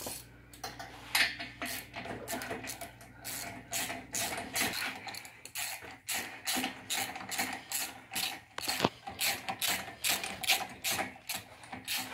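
Socket ratchet clicking in repeated quick strokes as the spark plugs are taken out of a two-stroke snowmobile engine to be checked after it fails to start.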